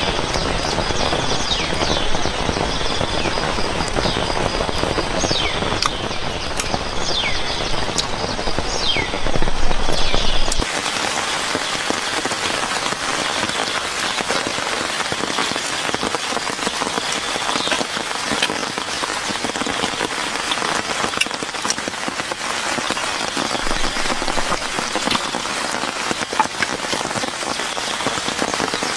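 Steady rain falling, with short repeated chirping calls over it for the first ten seconds. About ten seconds in the sound changes abruptly: the low rumble drops out and the rain turns brighter, with many small drop ticks.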